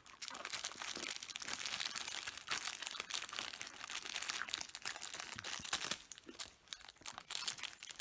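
Plastic wrapper crinkling and crunching in the hands, a dense run of small crackles with a brief lull near the end.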